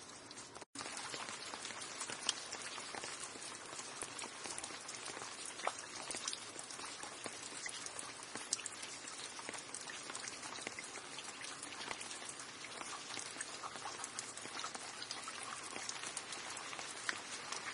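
Steady rain falling, a dense hiss of countless drops with sharper individual drop ticks scattered through it. The sound cuts out completely for a split second under a second in, then resumes slightly louder.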